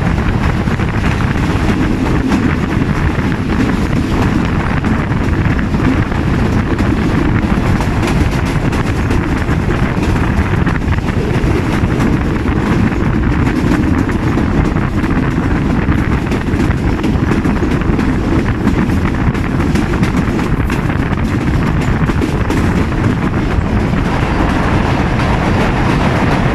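Steady rumble of a passenger train's coaches running at high speed, mixed with loud wind rushing over the microphone held out of the coach door.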